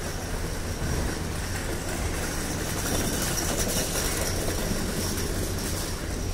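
A diesel-hauled passenger train moving at a station: a steady low rumble of the locomotive and rolling carriages, with a thin high whine above it that is strongest around the middle.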